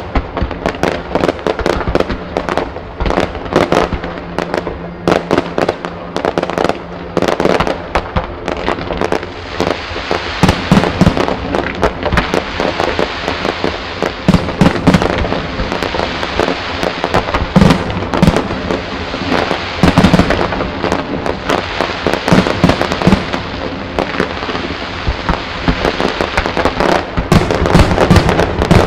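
Fireworks display: a dense, continuous barrage of shells launching and bursting, with many overlapping bangs and crackles.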